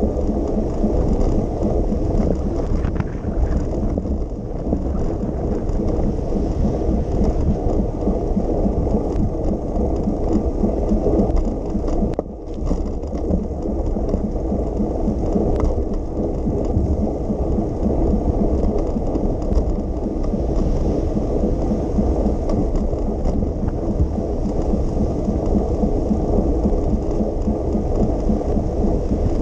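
Steady low rumbling noise of a bicycle ride in the rain: wind on the camera microphone mixed with tyres on wet pavement and rain, with a brief lull about 12 seconds in.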